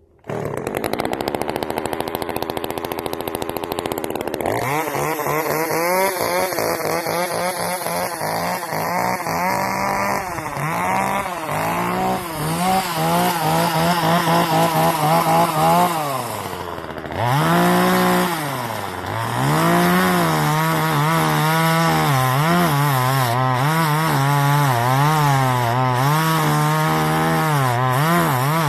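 Two-stroke gasoline chainsaw running just after a cold start: it sits at a high fast idle for about four seconds, then drops to an uneven, wavering idle. Around the middle its speed sags low twice and recovers.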